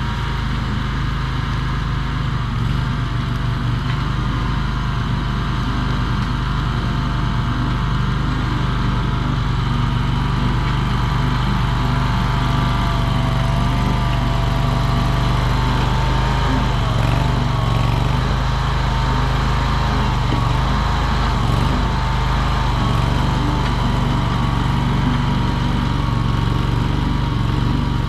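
Mini skid steer's engine running steadily, with a higher whine that wavers in pitch now and then.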